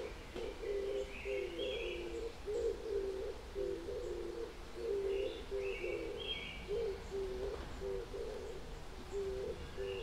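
Birds calling: a steady run of short, low-pitched notes, with a higher chirping phrase about every four to five seconds.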